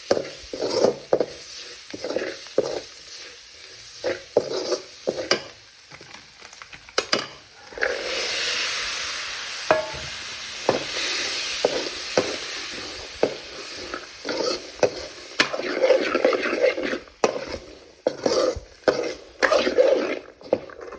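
A curry being stirred in a frying pan: quick repeated scraping strokes of the spoon against the pan, with a stretch of steady sizzling in the middle.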